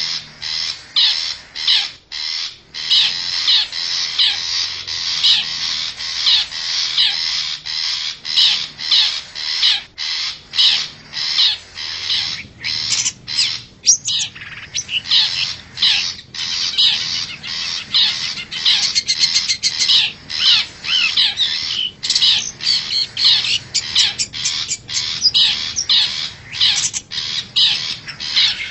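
Long-tailed shrike (cendet) calling without pause: quick runs of short, high notes, several a second, the wild shrike's call used as a lure to draw other shrikes close.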